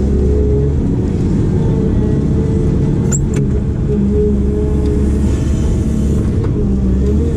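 Diesel engine of a heavy construction machine running steadily, a loud low drone whose pitched hum shifts a little as it works. Two short sharp clicks about three seconds in.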